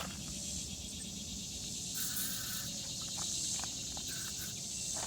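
Steady high-pitched chorus of summer insects, with two short higher notes about two and four seconds in and a few faint clicks.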